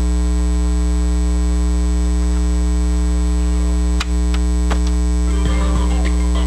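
Loud, steady electrical mains hum with a high whine above it, the bad sound of the recording. A few sharp clicks come about four seconds in, and faint music begins under the hum near the end.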